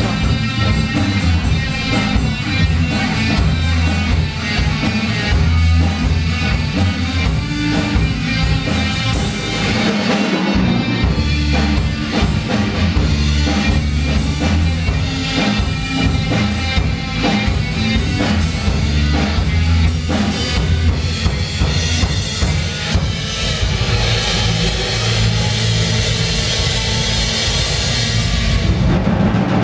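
A live rock band playing loud and without vocals, driven by a drum kit with heavy bass drum, with a brief break about ten seconds in.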